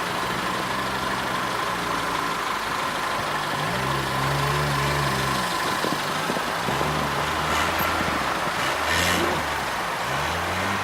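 A car engine idling steadily, most likely the TagAZ Aquila's 1.6-litre inline-four, over a constant background hiss.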